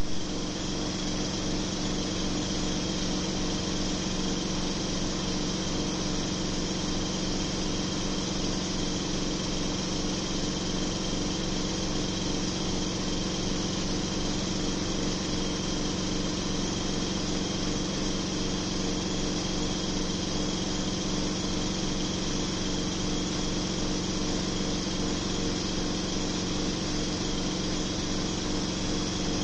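A small motor running steadily with a hiss, unchanging throughout.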